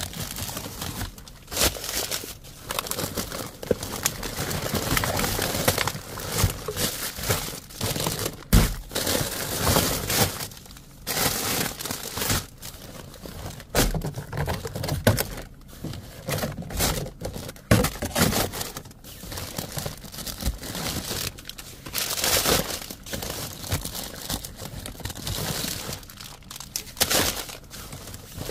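Plastic bags and food packaging rustling and crinkling in irregular bursts as packs of discarded food are rummaged through and handled, with an occasional knock.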